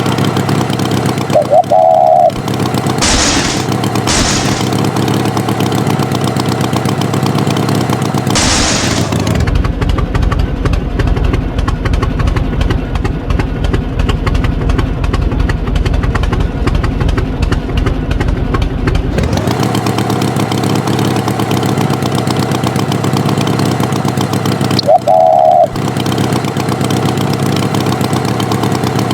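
Tractor engine running steadily, with a heavier rumbling stretch in the middle, a few short hissing puffs early on, and brief wavering horn-like tones near the start and near the end.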